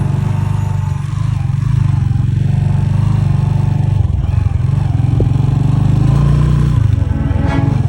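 Motorcycle engine running steadily with a low, pulsing exhaust note.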